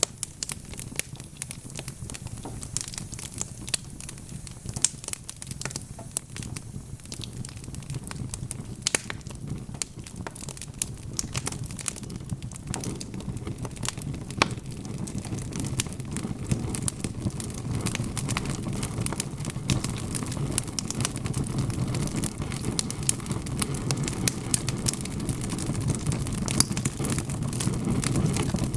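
Wood logs burning in a fireplace, crackling and popping in many irregular sharp snaps over a low steady rumble that grows louder through the second half.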